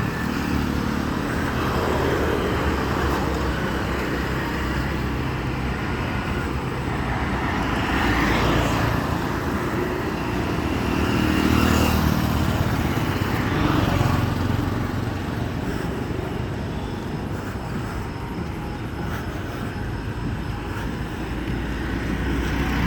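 Road traffic: a steady low rumble of motor vehicles, swelling a few times as vehicles pass.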